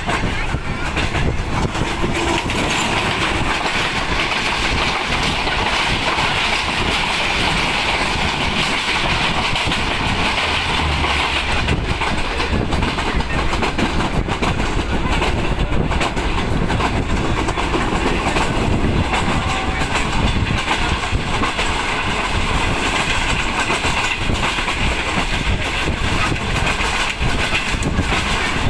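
Passenger train running along the line, heard from inside a moving coach: a steady rumble of the running gear with many short clicks of the wheels over the rail joints.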